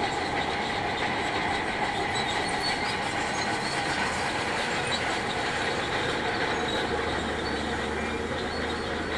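Shantui DH17C2 crawler bulldozer working, its engine running steadily under a continuous high metallic squeal and clatter from the steel tracks.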